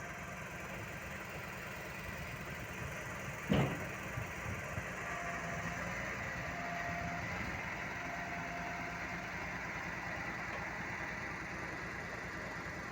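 John Deere crawler tractor's diesel engine running steadily while the machine is loaded onto a trailer, with one sharp metal clank about three and a half seconds in and a few lighter knocks after it.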